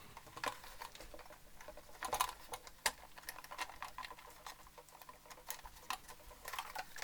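Light, irregular clicks and taps of small parts and tools being handled while reassembling an electric guitar's pickup mounting with its screws and springs.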